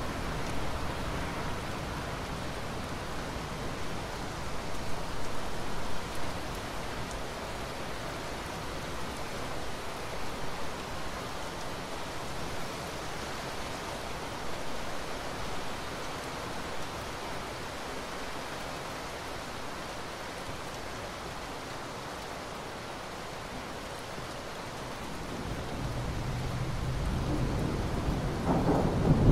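Steady rain falling, with a low rumble of thunder swelling in near the end.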